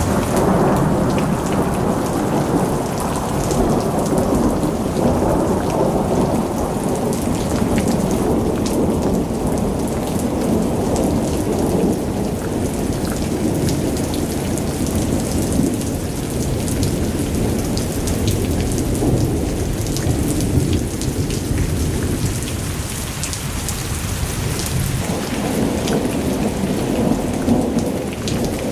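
Steady heavy rain, with a deep rumble underneath and scattered sharp drop hits.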